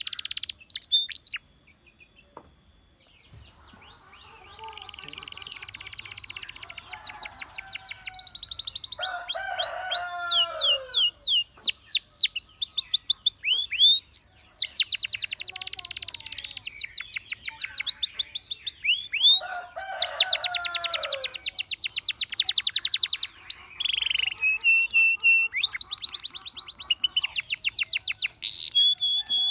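Canary singing: long runs of fast, high trills and rolls, broken by a short silence about two seconds in, with a few lower falling note series mixed in.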